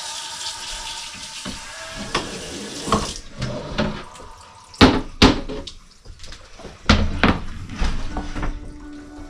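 Water running from a tap into a sink, with several sharp clatters of dishes and utensils, the loudest about halfway through.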